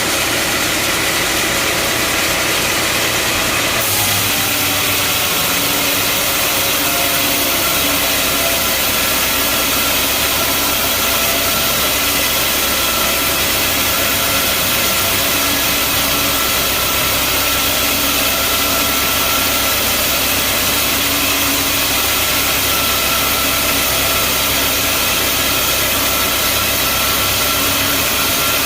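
Band sawmill running steadily: a loud mechanical drone with a dense hiss, whose tone shifts about four seconds in.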